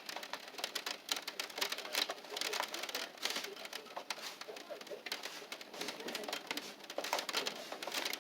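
Irregular patter of raindrops tapping on a hard surface close to the microphone, many quick ticks in no regular rhythm.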